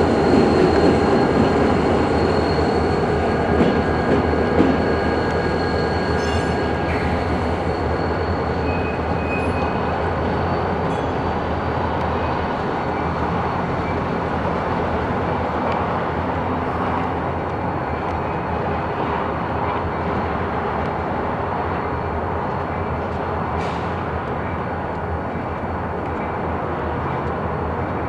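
Freight train running through a rail yard: a steady rumble of locomotive and rolling railcars, slowly fading, with a thin steady whine and a few faint clanks.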